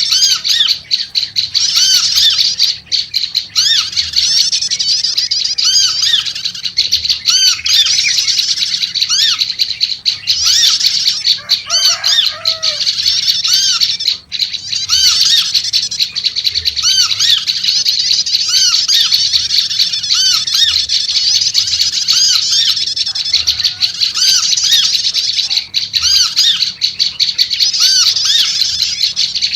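Prenjak lumut calling agitatedly: a continuous, busy chatter of rapid repeated high notes. A brief lower warbling call comes in about twelve seconds in.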